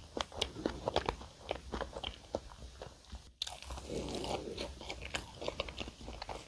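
Close-miked chewing of a flaky layered pastry with whipped cream and strawberries: many quick, crisp crackles of the pastry layers mixed with softer wet mouth sounds, broken by a brief drop to silence a little after halfway.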